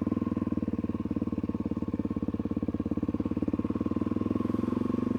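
Suzuki DR-Z400E's single-cylinder four-stroke engine running steadily under way, with a fast, even pulsing beat.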